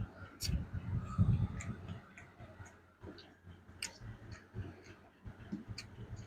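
Close-up eating sounds: chewing and mouth smacks, loudest in the first two seconds, with scattered sharp clicks.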